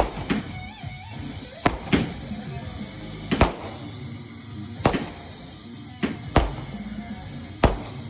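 Firework bangs, about nine sharp reports at irregular intervals, some in quick pairs, over guitar music playing steadily.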